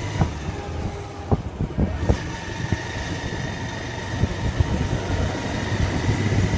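Motorcycle engine running steadily during a ride, with frequent short knocks scattered through it.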